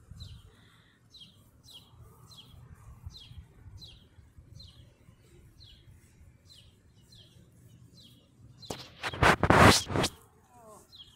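A bird calling over and over, a short falling chirp about twice a second, over a faint low rumble. About nine seconds in, a loud burst of noise lasts about a second.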